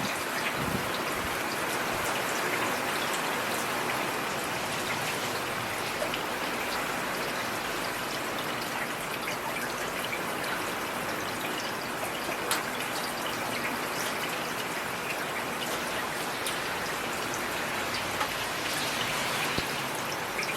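Steady heavy rain falling, a dense even hiss with scattered sharper drop ticks.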